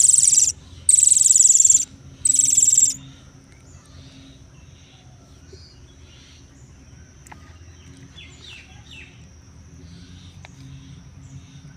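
A bird gives three loud, harsh, raspy calls in quick succession in the first three seconds, then falls quiet. A steady high thin trill, typical of a cricket, runs on underneath, with a few faint chirps.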